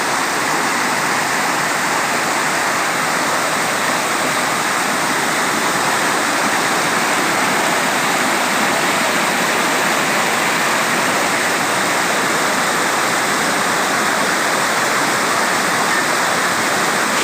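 Waterfall pouring over rocks: a loud, steady, unbroken rush of water.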